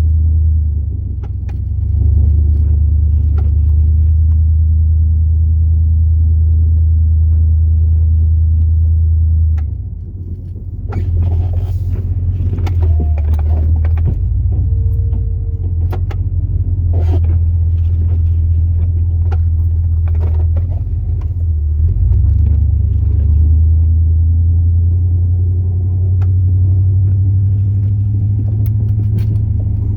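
Chevrolet Silverado 8.1-litre big-block V8 gas engine running steadily under way, dipping briefly twice, about a second in and again around ten seconds. Scattered knocks and rattles come through, mostly between about eleven and eighteen seconds.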